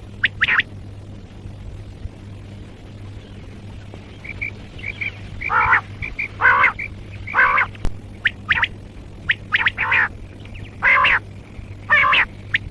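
Common quail calling: short, sharp repeated calls, a pause of a few seconds after the first, then a run of calls about one a second. A steady low hum lies underneath.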